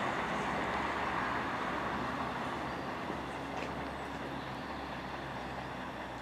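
Steady rumble of distant vehicle noise, slowly fading.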